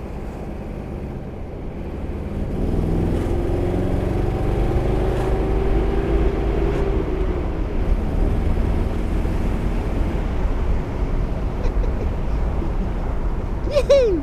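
Car engine running with a low rumble, growing louder about two and a half seconds in, its note rising and then falling as it goes by or revs. A brief falling squeak near the end.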